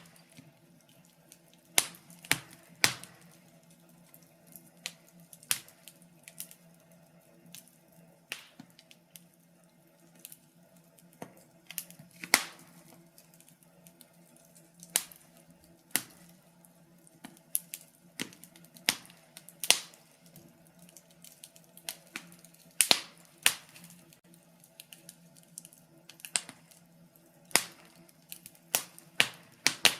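Wood fire crackling: irregular sharp pops and snaps, roughly one a second, some much louder than the rest, over a faint low steady hum.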